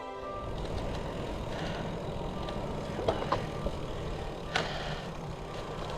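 Wind buffeting an action camera's microphone: a steady low rumble, with a few short sharp clicks about three seconds in and again about four and a half seconds in.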